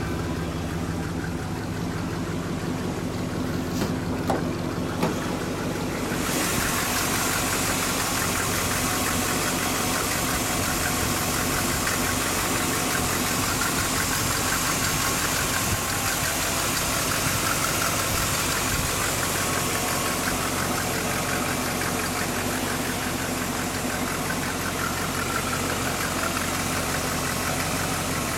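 Dodge Li'l Red Express pickup's 360 V8 idling steadily. About six seconds in the sound turns noticeably brighter and hissier, and there are a couple of short clicks just before.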